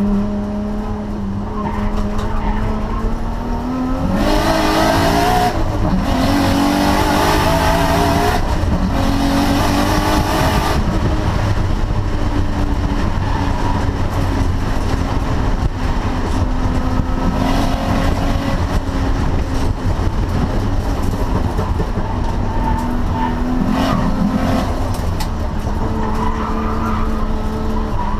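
Nissan RB24 2.4-litre straight-six in a Cefiro A31 race car, running hard on track. About four seconds in it revs up several times in a row through the gears and gets louder. Afterwards it runs at a steadier pitch with brief rises.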